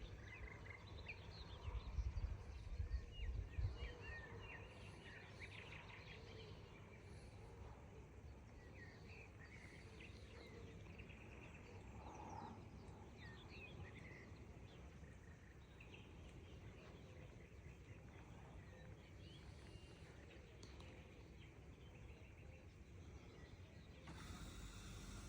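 Several songbirds chirping faintly and intermittently over a low background hiss, with a few low rumbles about two to four seconds in.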